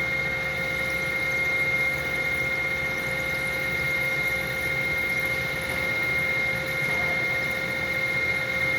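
Metal lathe running and turning a taper while the compound slide is fed by hand at an even speed: a steady machine hum with a constant high whine.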